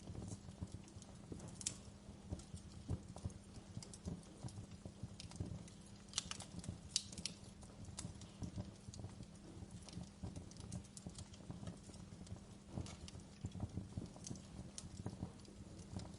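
Wood fire crackling in a fireplace: irregular sharp pops and snaps over a low steady rumble of the flames, with a cluster of louder pops about six to seven seconds in.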